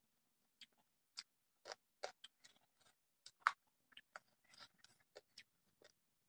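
A person chewing a mouthful of fried meat and rice, with irregular short crunches and mouth clicks; the sharpest crunch comes a little past halfway.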